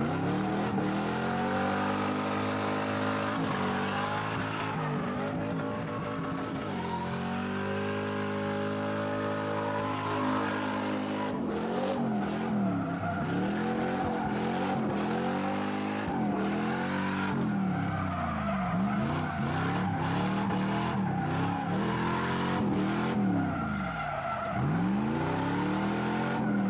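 A car engine revving hard, its pitch repeatedly climbing and dropping every couple of seconds, with tyres squealing as the car slides.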